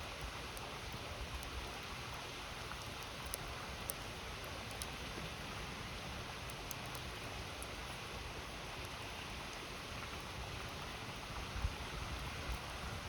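Steady rush of a flowing river, with scattered sharp, faint crackles from a wood campfire.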